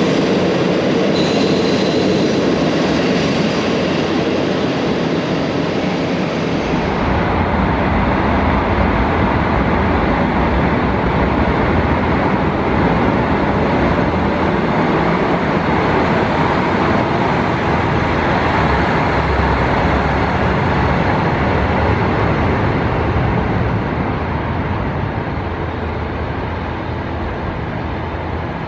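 JR Hokkaido KiHa 40 series diesel railcar running on the track, a steady rumble of engine and wheels that grows heavier in the bass about seven seconds in and fades a little near the end.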